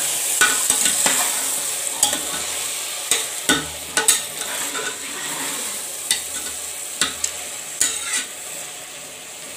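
Chopped tomatoes and onions sizzling as they sauté down in a pressure cooker, stirred with a utensil that scrapes and knocks against the metal pot at irregular intervals. The sizzle fades a little toward the end.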